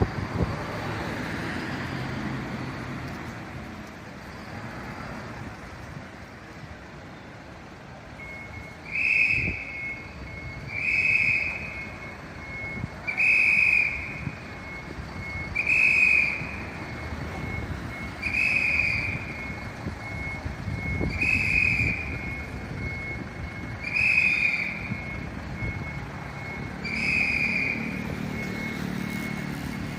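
A vehicle's electronic warning beeper sounds a single high tone about a second long, repeating every two to three seconds, starting about a third of the way in. Low engine and traffic noise runs underneath.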